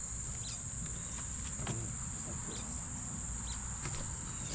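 Insects trilling in a steady, unbroken high-pitched drone, with scattered short chirps over it.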